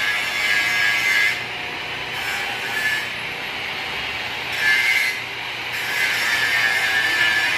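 Scraping strokes of a hand tool working on metal parts, coming in bouts a second or two long.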